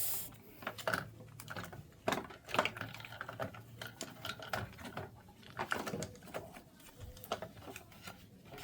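Irregular light clicks, taps and rustles of hands handling small plastic parts at close range, with no steady rhythm.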